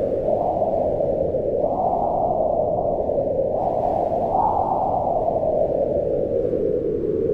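Wind blowing in slow gusts, a low rushing noise that swells and rises in pitch about two seconds in and again at about four and a half seconds, then eases off.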